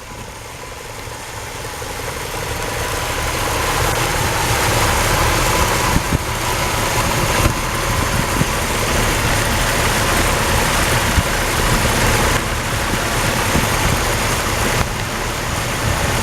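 1976 Chevrolet Stepside pickup's engine idling steadily, its sound growing louder over the first few seconds and then holding level.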